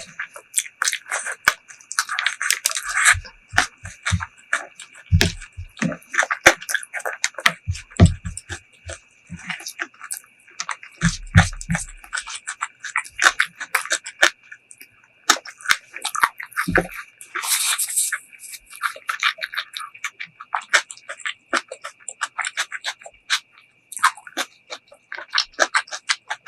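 Close-miked eating sounds: wet chewing, lip smacks and clicks of the mouth in a quick irregular patter, from a meal of chicken masala curry with cucumber salad. A faint steady high hiss runs underneath.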